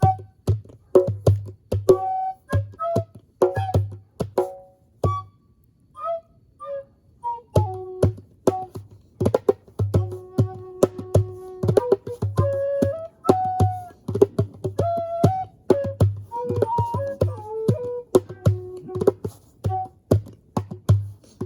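Native American flute playing a slow improvised melody of held notes over steady djembe hand-drum beats. About five seconds in, the drum stops for a couple of seconds while the flute plays a few short notes, then the drumming picks up again.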